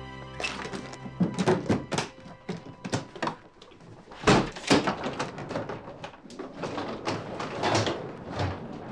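A run of irregular sharp knocks and thuds, more than a dozen, the loudest pair about four and a half seconds in.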